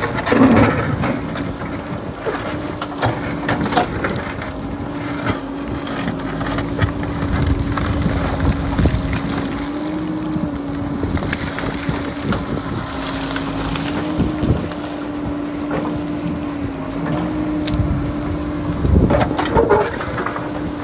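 Diesel engine of a JCB backhoe loader running steadily, its pitch shifting slightly as it works, with wind buffeting the microphone. A few short knocks and clatters are heard, loudest at the start and near the end.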